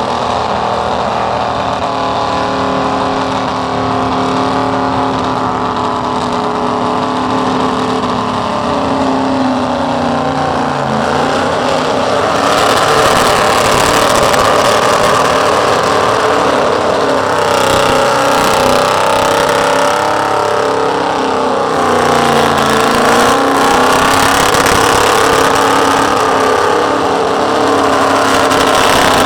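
Burnout vehicle's engine held at high revs, its pitch wavering up and down, growing louder about twelve seconds in and again past twenty seconds.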